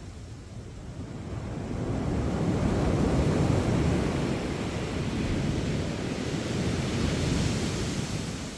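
Sea waves breaking and washing up a sandy beach, one surge building from about a second in, with wind buffeting the microphone.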